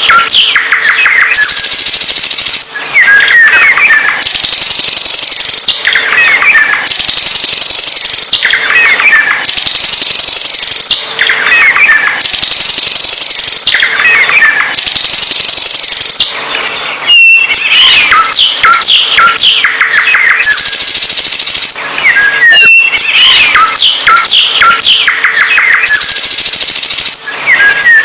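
A songbird singing loudly and without pause, repeating phrases in which bursts of rapid chirps alternate with high, hissing notes every couple of seconds.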